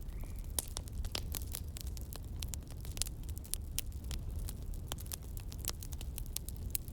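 Campfire crackling, with many sharp, irregular pops and snaps over a steady low rumble.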